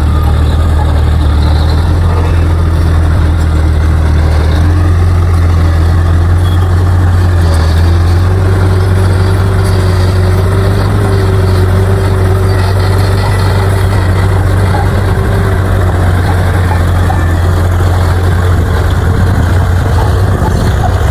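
Bulldozer's diesel engine running steadily with a strong, even low hum. A faint steady whine joins it about eight seconds in and fades out about seven seconds later.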